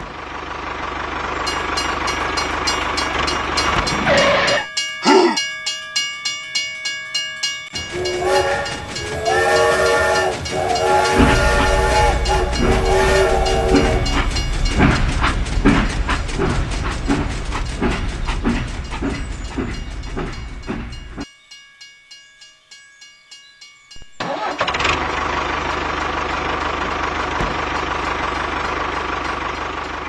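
Steam-train sound effects: a steady hiss, then rhythmic chugging at about two beats a second, with a whistle blowing for several seconds about eight seconds in. The sound dies down about twenty seconds in and the hiss returns.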